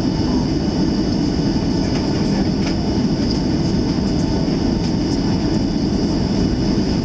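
Cabin noise inside a Boeing 737-700 rolling on the ground. Its CFM56-7B engines and wheels make a steady, loud rumble, with a high, steady whine above it and a few faint ticks.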